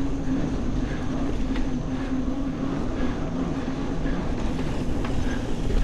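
Mountain bike rolling along a sandy, hard-packed dirt trail: steady tyre and drivetrain noise with a constant low hum and a few light clicks.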